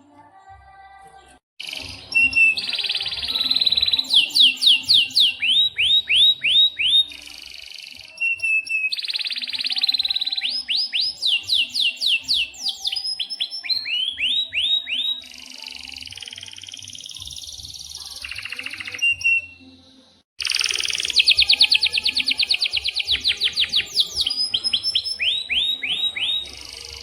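Domestic canary singing a long, loud song of fast trills and rapid runs of repeated falling notes. It starts about a second and a half in and breaks off briefly about twenty seconds in before carrying on.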